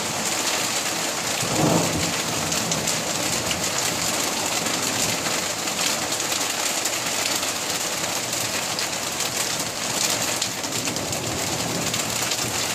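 Heavy rain mixed with hail pouring down in a steady, dense hiss during a thunderstorm, with thunder rumbling.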